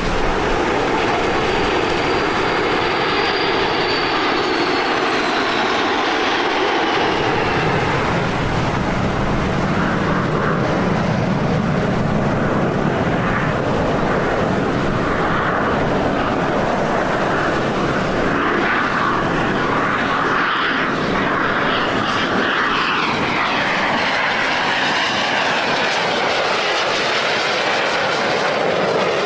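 Jet aircraft flying past in a display, a steady loud engine roar with a high whine that falls in pitch as they pass, twice.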